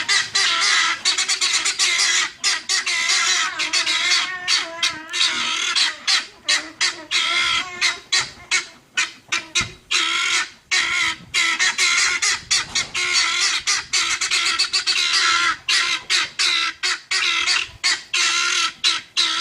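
A flock of guineafowl calling without a break, many short repeated calls a second overlapping one another.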